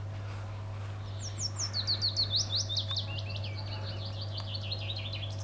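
A small songbird singing: a long, fast series of high, short downward-sweeping notes starting about a second in, sliding gradually lower in pitch as it goes on.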